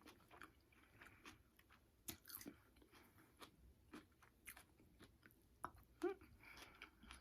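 Faint chewing of takeout food: quiet, irregular mouth clicks and soft crunches.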